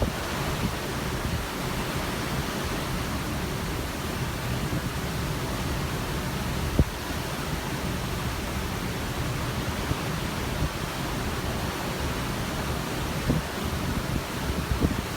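Steady rush of open sea seen from a cruise ship, with wind gusting on the microphone in low rumbles and one brief thump about seven seconds in.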